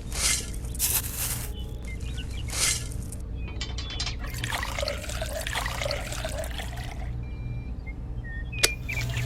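Liquid being poured in several splashy surges, then a longer pour with trickling, over a steady low hum.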